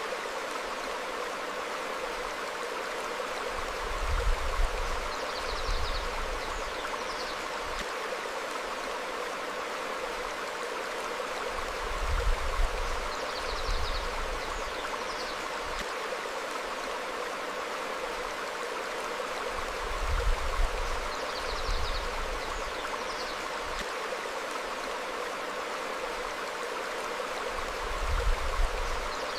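Stream flowing over rocks, a steady rush of water, with a low rumble swelling about every eight seconds and a few faint, brief bird chirps now and then.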